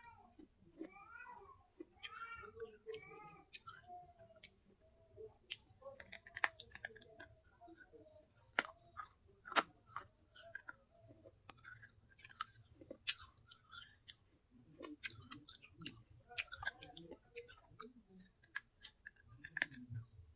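Close-up crunching and chewing of dry baked clay pot pieces: scattered sharp crunchy clicks. In the first few seconds there are several short rising-and-falling meows, like a cat's.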